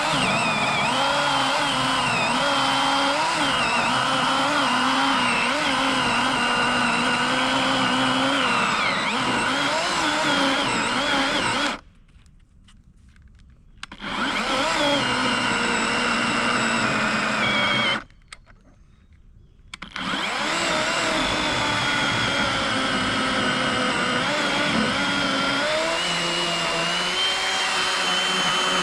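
Worx WG384 40-volt electric chainsaw, fitted with an 18-inch Oregon bar, running and cutting through a fallen log. Its motor whine wavers in pitch as it works. It stops twice for about two seconds, near the middle, and starts again.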